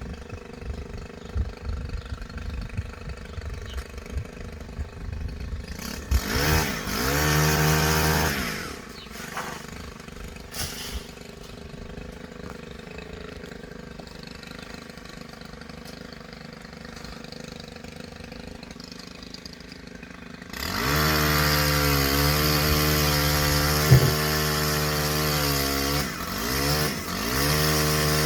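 Chainsaw idling unevenly, revved up briefly about six seconds in, then dropping back to idle. About twenty seconds in it is opened up to full throttle and held there, sagging and picking up again near the end, with one sharp knock partway through.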